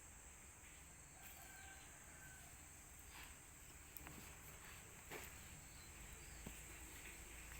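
Near silence with faint, steady high-pitched insect chirring and a few soft clicks.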